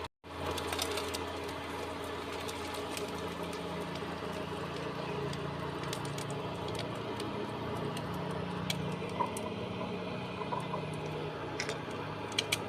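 Low, steady whirring hum from a cooker with scattered light crackles and ticks of food frying in a pan with very little oil.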